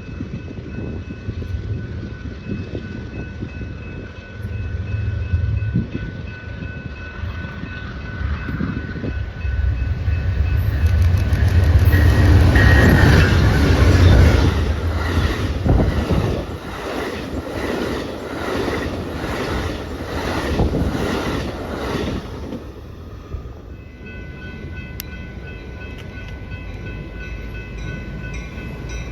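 A train passing close by: a deep engine rumble builds to its loudest about halfway through, then the cars' wheels click in a steady rhythm over the rail joints and fade away a few seconds before the end.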